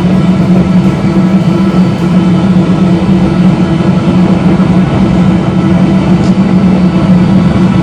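Homemade waste oil burner running: a loud, steady drone with a constant low hum.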